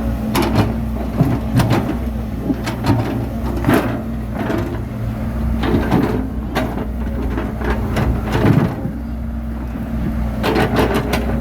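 Bulldozer's diesel engine running steadily, with irregular clanks and knocks through it.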